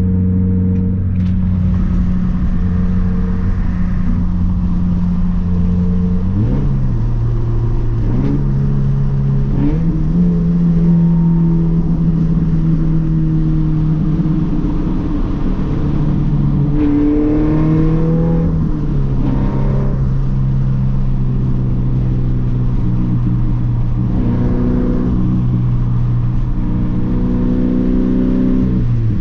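Scion FR-S's 2.0-litre flat-four boxer engine running with its muffler and resonator deleted, heard from the cabin while driving. A loud, steady drone holds for long stretches, and its pitch rises and falls several times as the revs change.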